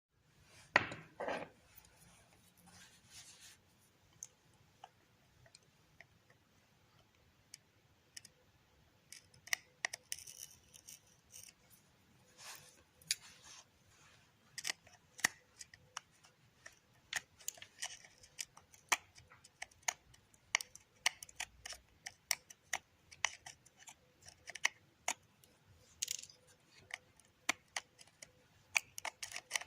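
Irregular sharp clicks and snips of small hand tools and parts being handled during an LED lamp repair, coming in quick clusters at times, with a louder knock about a second in.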